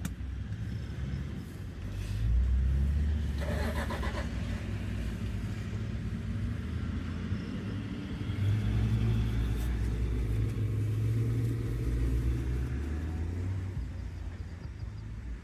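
Safari vehicle's engine running on a game drive: a low, steady rumble that swells louder about two seconds in and again for a few seconds past the middle as the vehicle picks up.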